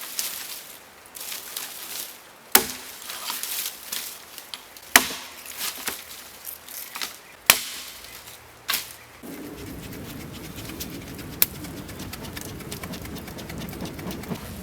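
Wood being chopped: a sharp chop about every two and a half seconds, five in all. After about nine seconds the chopping gives way to a steady hiss.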